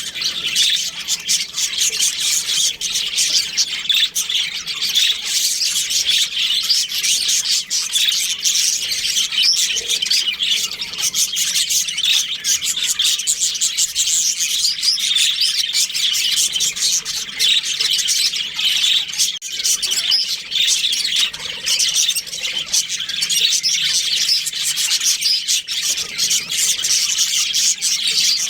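A flock of budgerigars chirping and chattering together: a dense, continuous twittering of many overlapping rapid calls.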